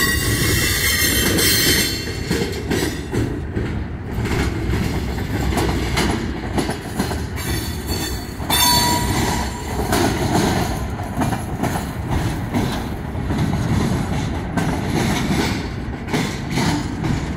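Norfolk Southern mixed freight train's cars rolling past at close range: a steady rumble of steel wheels on the rails, with brief high wheel squeals near the start and again about halfway through.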